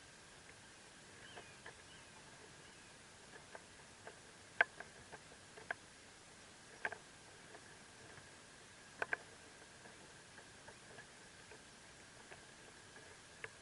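Faint scattered clicks and ticks from northern mockingbird nestlings stirring in their nest, the loudest about four and a half, seven and nine seconds in, over a steady faint high-pitched tone.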